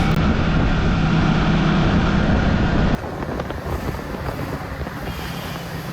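Motorcycle running at highway speed with wind rushing over the microphone. About three seconds in, a cut drops it to a quieter, rougher wind rumble.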